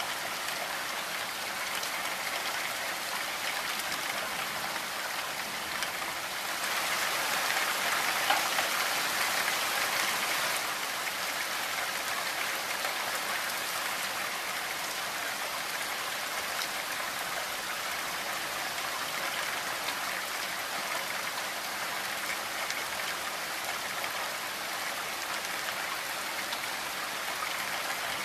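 Steady rain falling on a window and roof, an even hiss of drops. About a quarter of the way in it grows heavier for a few seconds, with one sharper drop hit in that spell, then settles back.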